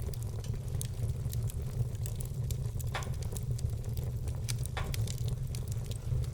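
Wood fire burning in a fireplace: a steady low rumble with many small crackles and two louder pops, about three and five seconds in.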